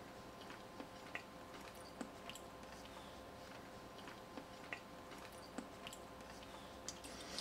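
Quiet, with faint irregular small clicks and wet mouth noises of someone chewing a mouthful of soft rice pudding, over a faint steady hum.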